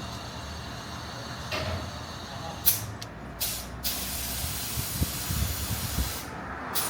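Compressed air hissing: two short bursts, then a longer hiss lasting about two seconds, over a low steady rumble.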